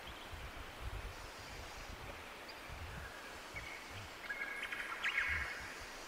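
A small songbird gives a quick run of short chirping calls, clustered from about three and a half to five and a half seconds in and loudest near the end. Beneath them is an irregular low rumble on the microphone.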